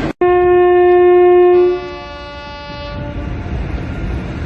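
Train horn sounding one loud, steady blast, with a second horn tone coming in after about a second and a half and fading out by about three seconds.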